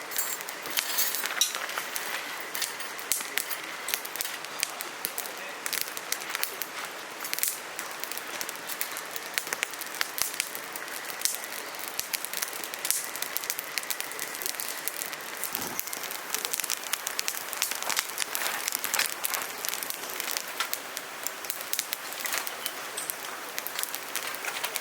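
Wood fire crackling in a fire pit, with a steady hiss and many sharp irregular pops.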